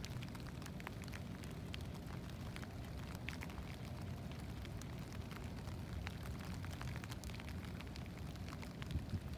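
Light rain pattering in scattered, irregular ticks over a steady low rumble of wind on the microphone.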